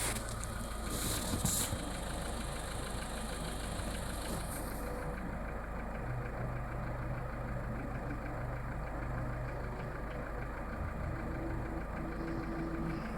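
Skoda Fabia 1.4 engine idling with a steady, fast, even tapping or knocking mixed into its running, loudest from the lower part of the engine. The dealer takes it for piston slap and considers it normal.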